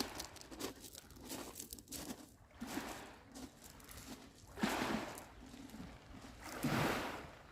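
Small waves washing over a pebble shore, the stones rattling and crackling as the water surges up and drains back, with two louder surges in the second half.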